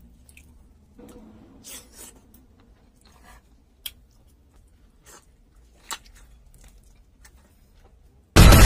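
Close-miked chewing and mouth sounds of a person eating boiled chicken off the bone by hand, with a few soft sharp clicks. Near the end, loud music with blast-like sound effects cuts in suddenly.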